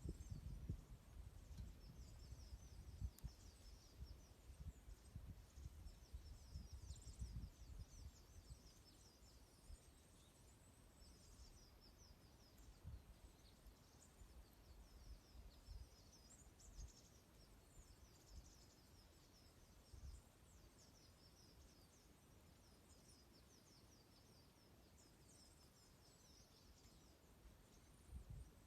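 A flock of small birds twittering faintly, with many short, high chirps throughout. Dull low bumps come now and then, mostly in the first several seconds.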